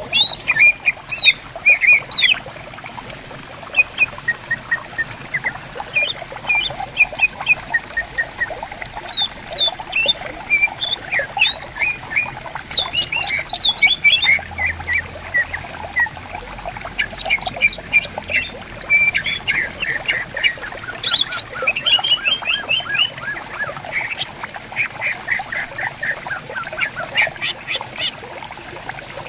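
Greater green leafbirds singing and calling back and forth: quick chirps, whistles and rapid trills with hardly a pause, over the steady babble of a shallow stream.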